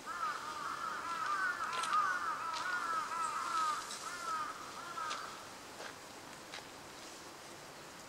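Birds calling: a fast chattering run of short arched notes lasting about five seconds, with sharp, high single calls scattered through it and a few more after it stops.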